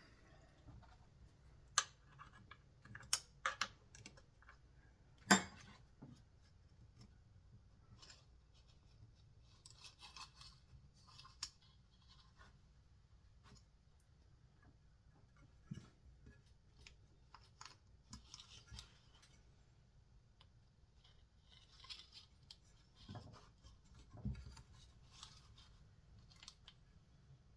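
Scattered clicks and light scraping of small parts being handled on a chainsaw's recoil pull starter, with a few sharp clicks in the first few seconds, the loudest about five seconds in, and long quiet gaps between the later small noises.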